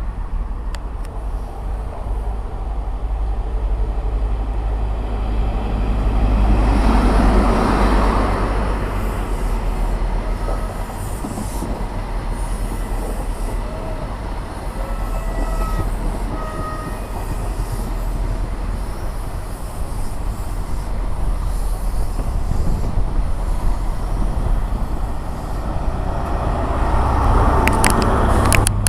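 A train moving at a station platform: a steady low rumble that swells about a third of the way in, brief high squeals in the middle, and a few sharp clicks near the end.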